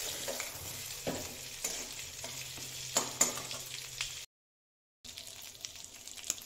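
Stuffed pointed gourds (parwal) sizzling in mustard oil in an aluminium kadhai while a metal spatula stirs and scrapes them, with a few sharp taps of the spatula on the pan. The sound cuts out about four seconds in, then a fainter sizzle returns briefly.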